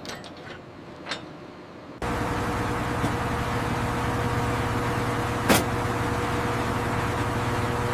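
A heavy engine running steadily, a low, even drone that cuts in suddenly about two seconds in, with a single sharp knock near the middle.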